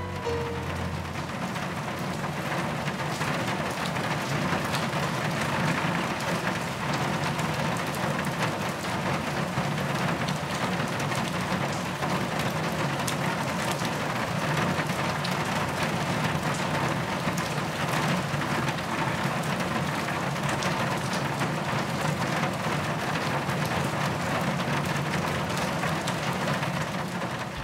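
Steady rain falling, a dense hiss made of many separate drop hits.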